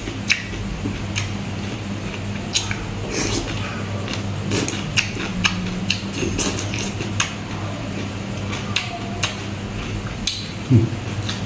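Close-miked chewing and crunching of raw salad vegetables, with scattered sharp clicks of a metal spoon against the plate, over a steady low hum.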